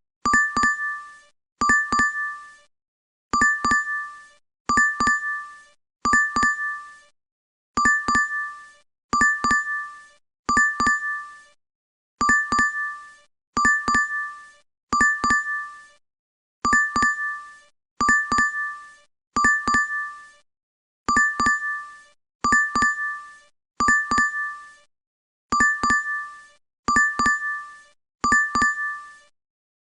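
DoorDash app notification chime playing on loop: a quick double ding, repeated about every second and a half, in sets of three with a short pause between sets.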